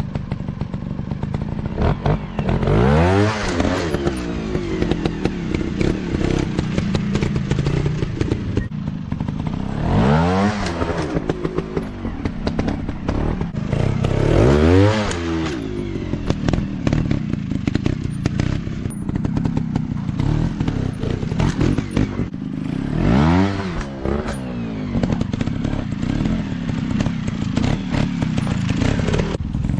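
Off-road dirt bike engines running, revving up and back down about four times over a steady drone.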